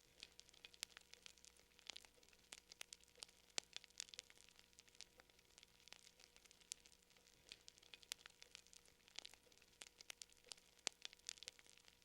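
Faint fire crackling: irregular sharp pops and snaps, several a second, with no steady rhythm.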